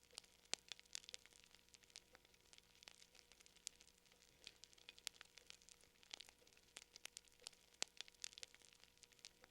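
Faint fire crackling: irregular sharp pops and snaps, several a second, some louder than others.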